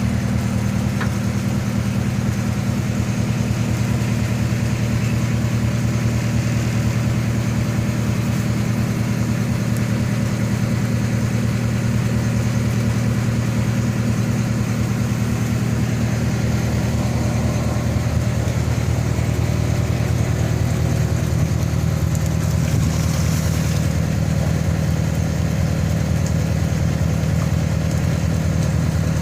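Squid fishing boat's engine running steadily at an even, low hum.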